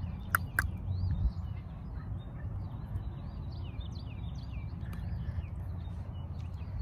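Birds chirping, many short high notes one after another, over a steady low rumble, with two sharp clicks about half a second in.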